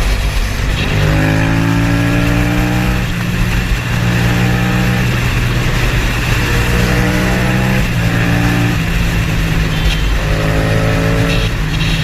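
Motor vehicle engine accelerating hard, its pitch rising four times in a row and dropping back between the rises.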